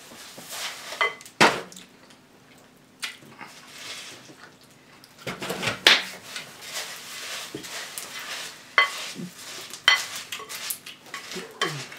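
Spoons clinking and scraping in cereal bowls while eating cereal: irregular sharp clicks and knocks, several of them louder.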